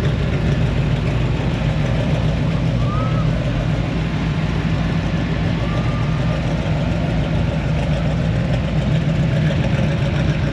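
Car engine idling steadily, a low, even rumble with no revving.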